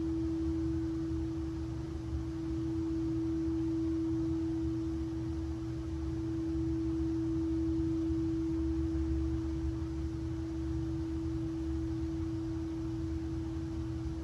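Singing bowl sustained as one steady, pure mid-pitched tone that holds without fading, over a low rumble.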